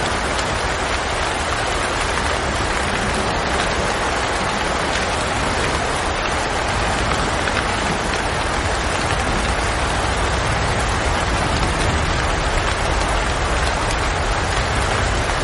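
Steady rain falling, an even hiss of drops with a low rumble beneath.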